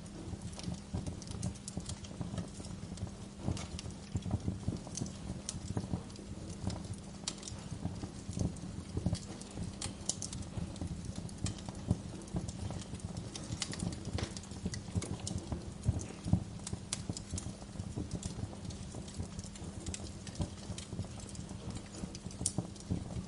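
Wood log fire crackling in a fireplace, with irregular pops and snaps and a sharper pop about 16 seconds in, over a steady low hum.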